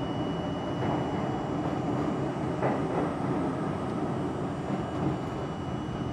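R42 subway car running on the rails, a steady rumble of wheels and running gear heard from inside the car, with a couple of faint clicks about one and three seconds in.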